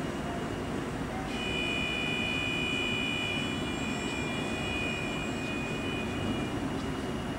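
Koleje Mazowieckie electric multiple unit drawing to a stop at an underground platform: a steady rumble, with a high-pitched whine that starts about a second in and fades out near the end.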